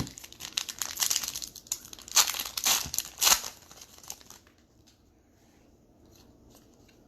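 A foil trading-card pack wrapper being torn open and crinkled in the hands, with sharp crackles for the first four seconds or so, loudest around the middle, then only faint handling.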